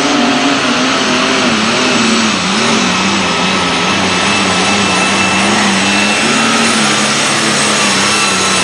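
Super Stock pulling tractor engine running hard at full throttle under load down the track, its pitch wavering up and down as the load and wheel speed change, with a high steady whine above it.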